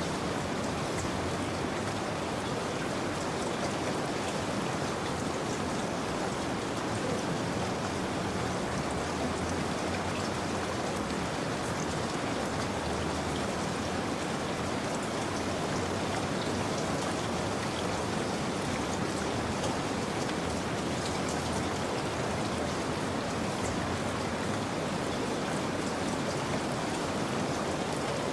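Steady rain falling, with many fine drops pattering on a surface. The level stays even throughout.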